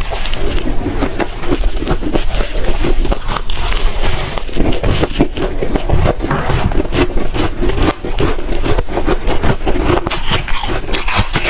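Close-miked chewing of soft, fluffy shaved ice: a dense, unbroken run of small crisp crunches.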